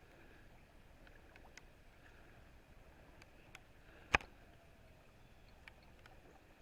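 Faint steady rush of river rapids, with scattered light ticks and one sharp click about four seconds in.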